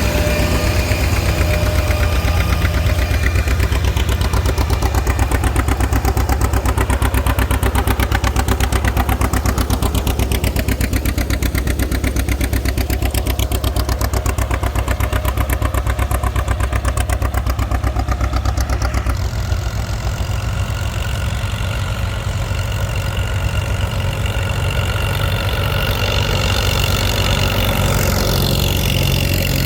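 Tractor engine running steadily and close, with a fast, even firing beat. Its low note drops about two thirds of the way through.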